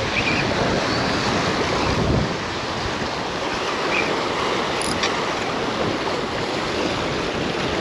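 Strong wind rushing over the microphone with choppy water lapping: a steady, noisy rush that buffets harder for about the first two seconds, then eases.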